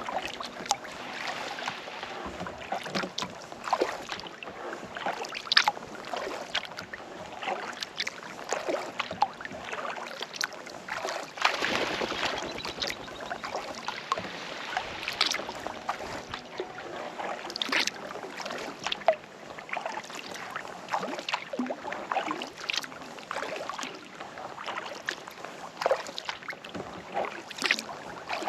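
Kayak paddle dipping and pulling through calm lake water, with irregular splashes and drips off the blade.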